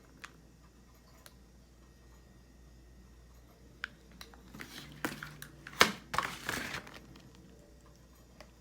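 Handling noise: a few light clicks, then about two seconds of rustling with sharp knocks in it, the loudest about six seconds in.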